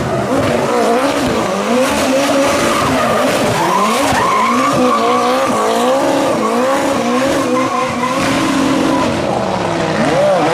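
Race car engine revving hard with tyres squealing continuously, the pitch wavering up and down as the car slides.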